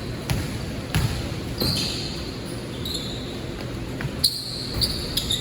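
A basketball bouncing on an indoor court, several irregular thumps, with short high sneaker squeaks in between over a steady rumble of a large hall.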